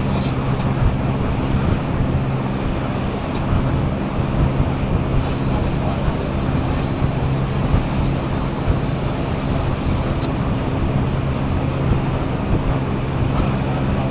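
Passenger boat's engine running steadily under way, a constant low hum, under the rush of water along the hull and wind on the microphone.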